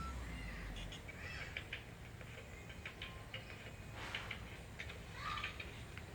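A few short chirps and scattered light clicks over a low background hum.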